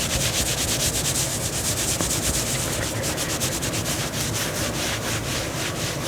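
Fingernails scratching fabric close to the microphone in fast, even strokes, many a second.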